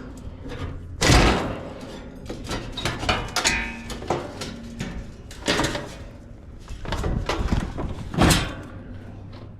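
Knocks and clattering of parts and tools being handled while working on a heat pump, with the loudest knock about a second in and others around halfway and near the end.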